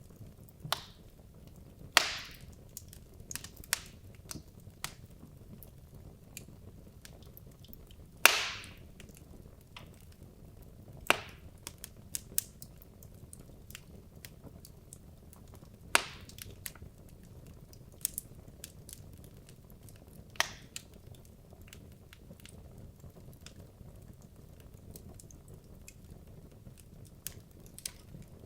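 Wood logs burning in a fireplace: a low steady hiss with irregular crackles and a few sharp pops, the loudest about 2 and 8 seconds in.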